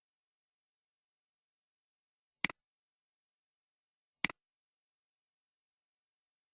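Two sharp clicks, each a quick double tick, a little under two seconds apart, against dead silence.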